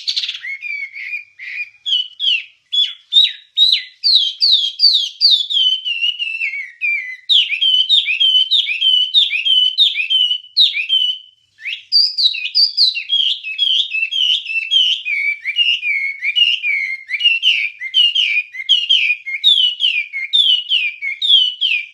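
Wambie songbird singing a long, rapid run of short whistled chirps, each sliding downward in pitch, with one brief pause about halfway through.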